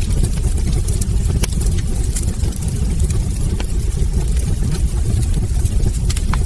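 Log fire burning in a fireplace: a steady low rumble with frequent sharp crackles and pops scattered through it.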